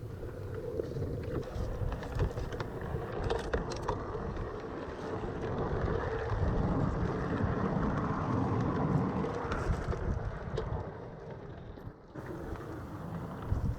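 Miniature garden-railway train running on 5-inch gauge track: a steady rumble with a faint steady hum and scattered clicks from the wheels.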